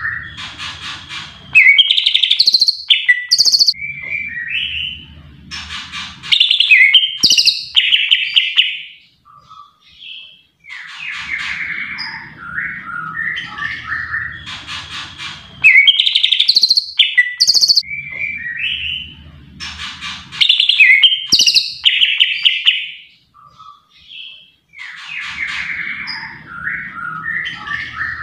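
Green leafbird (cucak ijo) singing a loud, varied song of quick whistles and chattering notes. The song comes in long bursts broken by two short pauses, with much the same run of phrases repeating roughly every ten seconds.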